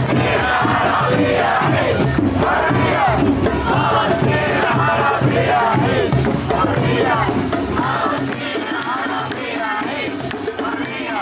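Crowd of protesters chanting and singing together in rhythm, many voices rising and falling, with a shaken rattle or tambourine. A low steady hum underneath fades out about eight seconds in.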